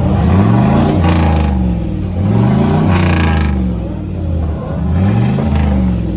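Car engine revved several times: the pitch climbs and falls back about three times, settling to a steady idle between revs.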